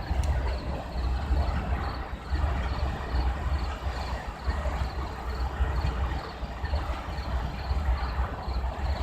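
Low, uneven rumble of a train's engine running, with a cricket chirping about twice a second.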